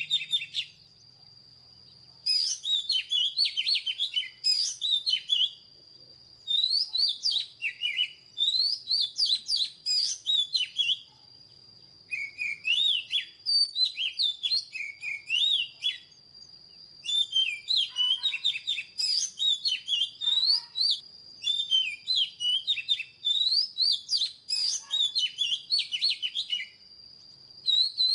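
Oriental magpie-robin singing: loud, varied whistled phrases with quick rising and falling notes, delivered in runs of a few seconds with brief pauses between. A thin steady high tone runs underneath throughout.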